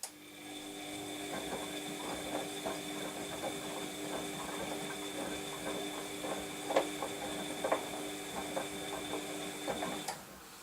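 Washing machine drum turning during the wash phase: a steady motor whine with irregular clicks and knocks from inside the drum. It starts with a click and cuts off suddenly near the end.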